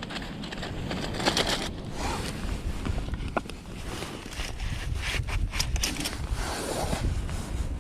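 Irregular scraping and rustling of things being handled, over a steady rumble of wind on the microphone.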